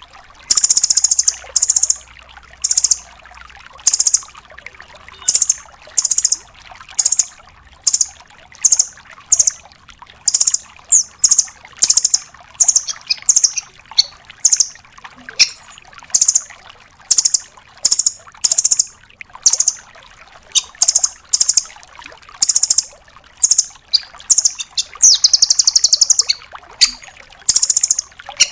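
Velvet-fronted nuthatch (red-billed 'rambatan doraemon') calling in a string of short, very high, rapid-fire trills, about one or two a second, with one longer trill near the end. A faint trickle of water runs underneath.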